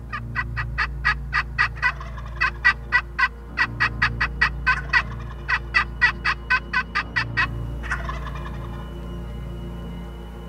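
Turkey calling: runs of short, sharp, rapidly repeated notes, about four a second, broken by brief pauses, then a final call about eight seconds in. Low background music hums underneath.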